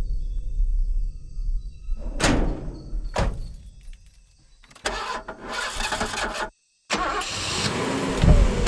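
Trailer sound design: a low rumble, two sharp swooshing hits about a second apart, a noisy stretch that cuts off dead, then a rising build.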